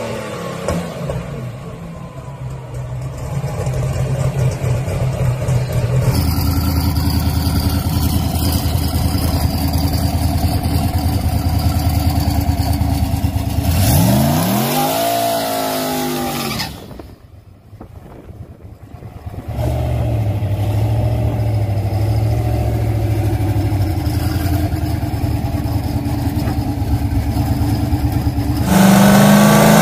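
Big-turbo drag-racing Toyota Supra engine running, idling steadily and being revved. About halfway through it revs up and back down once. The sound drops away for a couple of seconds, then returns to a steady idle.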